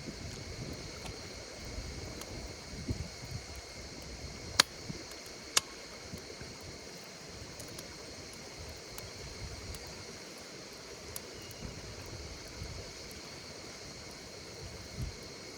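Campfire burning with a low flutter of flames and scattered crackles, including two sharp pops about a second apart near the middle, over the steady chirring of insects.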